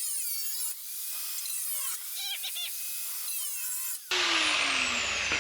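A power cutting tool on sheet steel. About four seconds in it comes on loud, and its pitch falls steadily as it winds down. Before that there is a thinner, wavering high sound with no low end.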